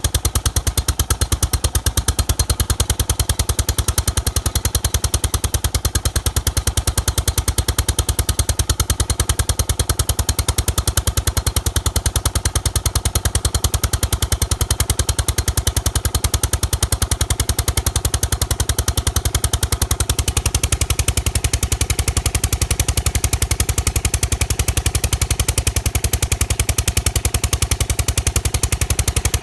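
John Deere 14SE walk-behind mower engine running steadily with a fast, even beat of firing pulses. The owner takes this running for a fault but does not know its cause.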